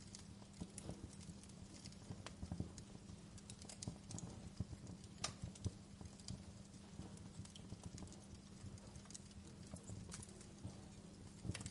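Wood fire crackling in a fireplace: irregular pops and snaps of burning firewood, a few of them sharper and louder, over a low steady rumble of the flames.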